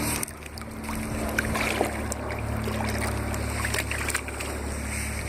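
Kayak paddling on a creek: water dripping and lapping around the paddle, with small ticks scattered through, over a steady low hum.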